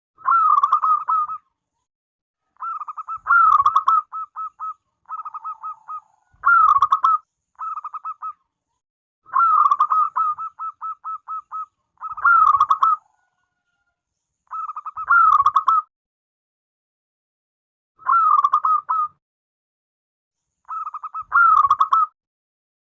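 Zebra dove (perkutut) cooing: about ten short phrases, each a rapid run of clipped notes with a stronger opening note, repeated every couple of seconds with short silences between.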